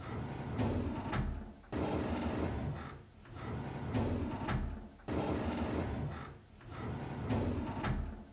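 A drawer being slid open over and over in a repeating loop. Each opening starts suddenly, runs as a rumbling slide that swells and ends in a sharp click, and lasts about three and a half seconds. New openings begin about two seconds in and about five seconds in.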